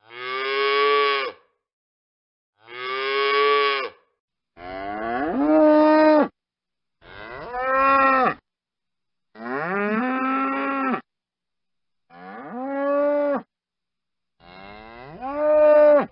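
A bull mooing: seven separate long calls, each rising in pitch at its start and then held, with dead silence between them.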